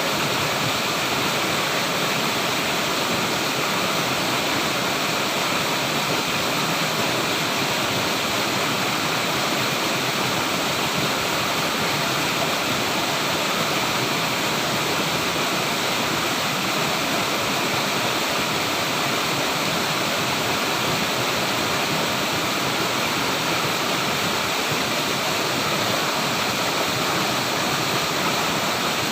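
Flowing water rushing steadily, with no breaks or changes.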